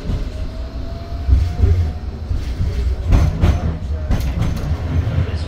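Tram running along the track, heard from inside the car: a steady low rumble with a faint rising whine in the first second or so, and a few sharp knocks about three seconds in.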